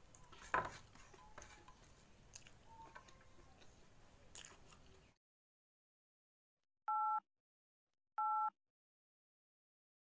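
Close-miked chewing of a mouthful of rice, with small wet mouth clicks. After a sudden cut to silence come two short identical electronic beeps about a second apart, the sound effect of a subscribe-button animation.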